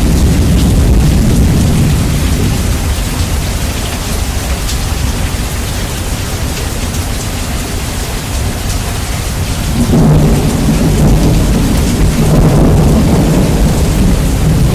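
Steady rain with thunder, heavily bass-boosted so that the low end dominates and is very loud. One rumble eases off over the first several seconds, then a new thunder rumble breaks in suddenly about ten seconds in.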